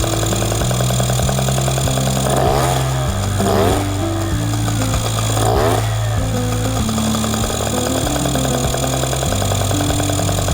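Honda Leader 50 scooter's small engine running, revving up and back down around two and a half seconds in and again just past the middle, under background music with a stepping bass line.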